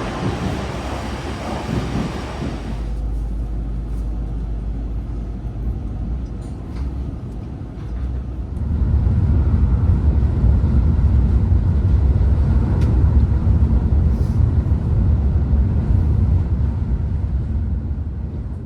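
Train running, a steady low rumble with a hiss over it for the first few seconds; the rumble grows louder about nine seconds in.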